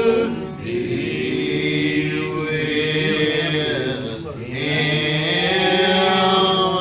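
Voices singing a slow gospel hymn, each word drawn out over long held notes.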